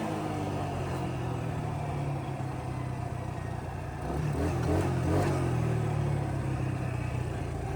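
Small engine of a Grizzly 125 ATV running steadily at low speed, picking up a little about four seconds in.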